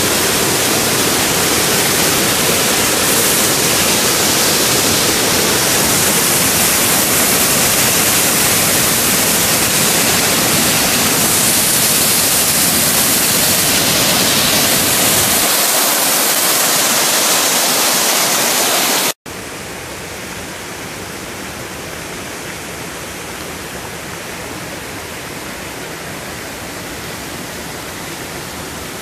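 Waterfall on a rain-swollen creek pouring in full flow, a loud steady rush of water. About two-thirds of the way through it cuts off abruptly and resumes quieter and duller.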